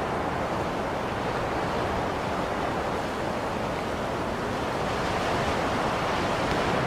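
Blizzard wind blowing steadily, an even rushing hiss that swells slightly in the second half.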